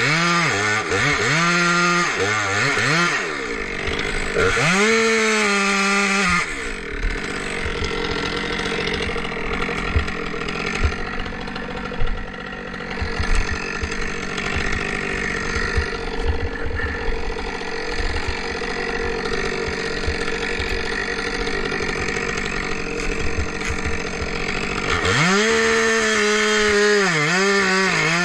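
Two-stroke chainsaw revved up and down several times, then held at steady high speed under load for about eighteen seconds as in a cut through wood, and revved up and down again near the end.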